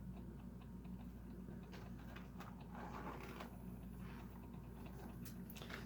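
Faint handling noises, a few light clicks and rustles of packaging or cars being moved, over a low steady hum.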